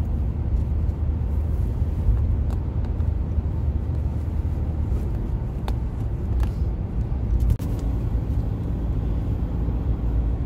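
Steady low road and engine rumble of a car driving along a road, heard from inside the cabin.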